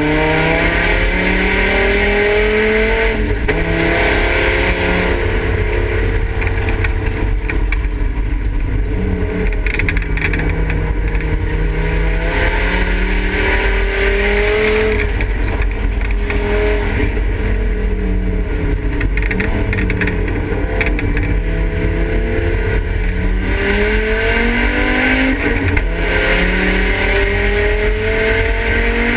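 Volvo 850 race car's straight-five engine under hard acceleration, heard from inside the stripped cabin. The pitch climbs through each gear and drops back at the shifts and under braking, several times over, with road and tyre noise beneath.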